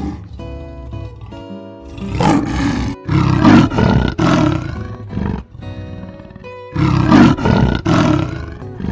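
Lion roaring in several loud, rough calls of a second or so each, over background music.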